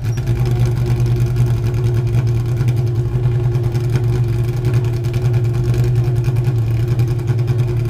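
Car engine running steadily at a constant speed close by, a loud even drone that steps up in level right at the start.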